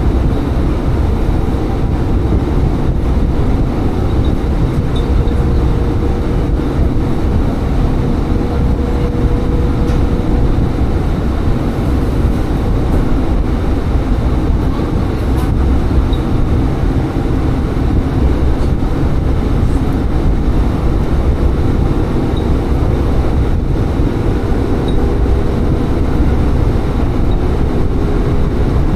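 Diesel railcar running along the line: a steady low engine drone and wheel-on-rail rumble with a faint steady whine.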